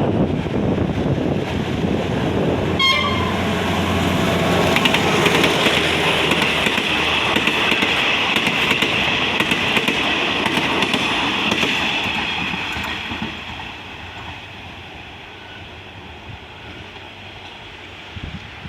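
A passenger train passing close by, hauled by an Alsthom diesel locomotive with an MTU engine. There is a short horn toot about three seconds in, then the carriage wheels clatter over the rails, fading off after about thirteen seconds.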